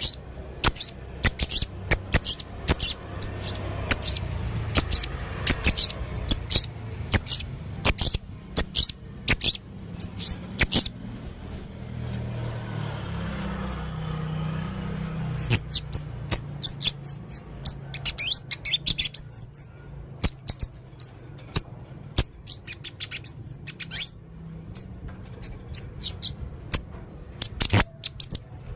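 Male blue-crowned hanging parrot (serindit) calling vigorously: a steady stream of sharp, short high chips and ticks, with a fast run of high chirps in the middle.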